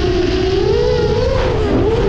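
10-inch FPV freestyle drone's brushless motors and propellers whining, the pitch swinging up and down with throttle changes, with a dip and rise near the end.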